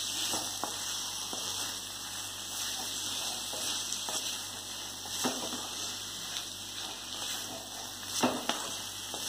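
Chicken roast sizzling in a metal kadai while it is stirred with a wooden spatula, with a few soft scrapes and knocks of the spatula against the pan, clearest near the middle and near the end.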